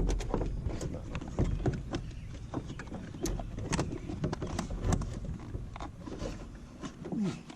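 Irregular clicks, knocks and scraping of hard plastic as a car's blower cover is worked loose by hand, some clicks sharp.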